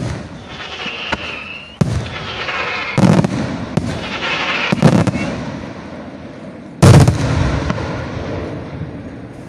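Aerial firework shells bursting: about five sharp bangs a second or two apart, each trailing off, the loudest about seven seconds in.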